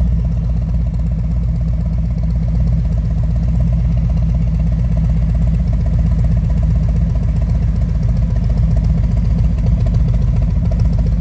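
Harley-Davidson Freewheeler's V-twin idling steadily through Vance & Hines Twin Slash round slip-on mufflers, heard close to the exhaust.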